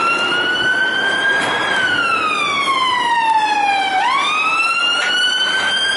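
Police siren wailing with one pitched tone that rises slowly, falls over about two seconds, then sweeps quickly back up about four seconds in and keeps climbing slowly.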